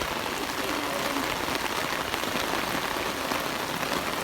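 Steady hiss of water, even and unbroken throughout.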